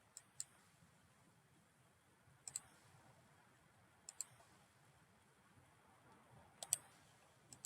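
Computer mouse clicking in quick pairs, a few times, over faint room hiss.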